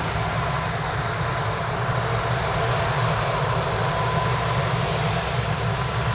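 Aircraft engines running steadily, a dense rumbling noise with a thin, steady whine through it.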